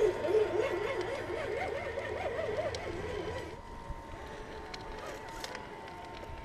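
Electric motor and gears of a scale RC rock crawler whining, the pitch swinging rapidly up and down as the throttle is worked on a steep rock climb. After about three and a half seconds it drops to a quieter steady whine with a few light clicks.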